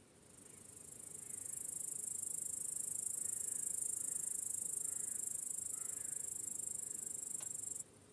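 A cricket's high-pitched trill swells in over the first second and a half, holds steady, then cuts off suddenly near the end, over a faint background chorus of crickets.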